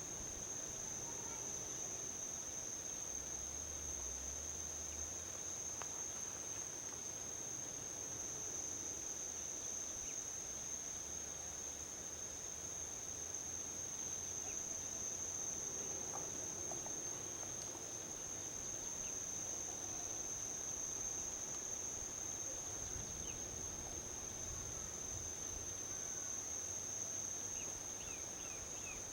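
A steady, unbroken high-pitched trill from a chorus of insects, over a faint low hum of distant highway traffic. A few short bird chirps come near the end.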